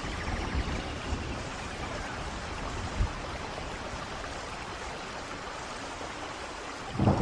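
Steady rain falling, an even hiss of drops, with a single dull thud about three seconds in. Right at the end a loud low rumble of thunder sets in.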